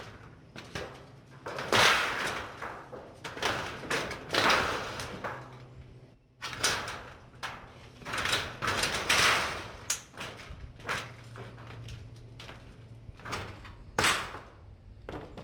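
Corrugated tin roofing sheet being shifted into place: several long scraping slides of metal over the roof, with sharp knocks in between.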